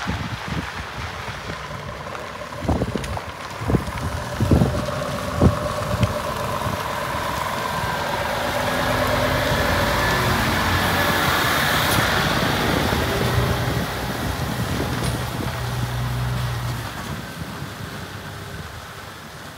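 Scania G500 tipper truck's diesel engine running, growing louder for several seconds in the middle before settling back. Four sharp knocks come between about three and five and a half seconds in.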